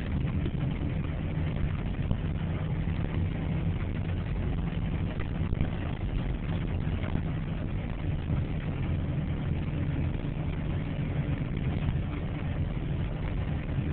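A heavy engine idling steadily, low-pitched and even throughout.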